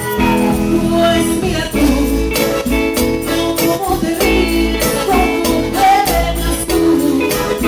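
Live cumbia band playing an instrumental passage with a steady beat: bass, percussion with jingling shakers or tambourine, and a melodic lead over it.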